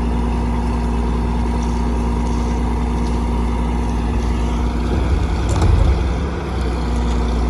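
Heavy diesel construction machinery running steadily, with a brief surge in engine load and a few knocks about five seconds in.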